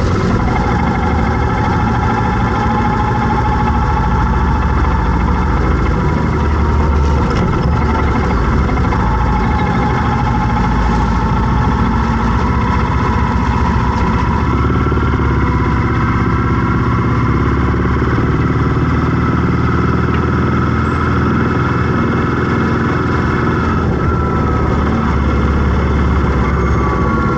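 Traffic noise: a vehicle engine running steadily at low speed, with a higher whine that slides up and down now and then.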